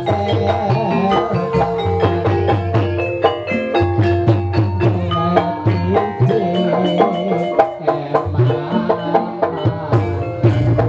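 Gamelan music for an ebeg dance: mallet-struck keyed instruments play a busy, ringing melody over drums and a steady low bass, with quick, regular strikes throughout.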